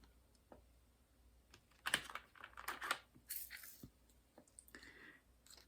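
Scattered light clicks and short rustles of small objects being handled, with brief clusters about two and three seconds in.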